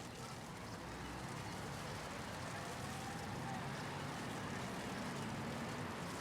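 City street traffic ambience: a steady wash of passing vehicles, a low engine rumble under an even hiss, with a faint gliding tone partway through.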